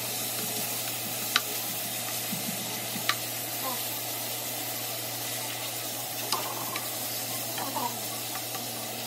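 Food sizzling steadily in hot oil in a pan, with three sharp clicks in the first two-thirds.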